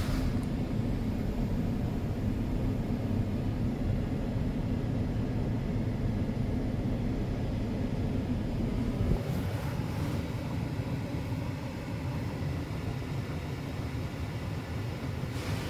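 Car engine idling, heard from inside the cabin as a steady low rumble. About nine seconds in, the deepest part of the hum drops out and the rumble gets a little quieter.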